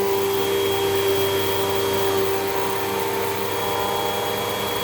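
Hoover WindTunnel 2 Rewind upright vacuum cleaner running steadily during vacuuming, its motor giving an even hum with a steady whine.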